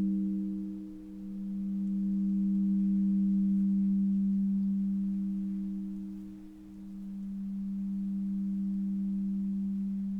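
A sustained, low, pure healing tone near 200 Hz with fainter overtones above it. It slowly swells and fades in a wobble, dipping almost away twice, about a second in and again at about six and a half seconds.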